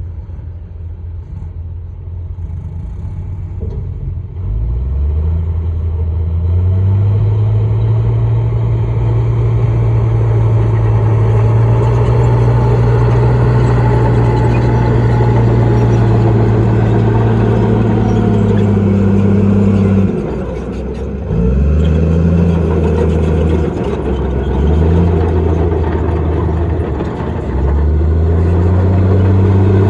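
Heavy diesel engine of an earthmoving machine climbing in revs and running hard under load. About 20 seconds in it drops off, then surges back up several times in short pushes.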